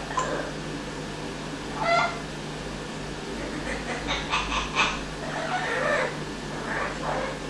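Amazon parrot calling: short squawk-like calls about two seconds in, a quick run of clipped notes around four seconds in, then more calls near the end.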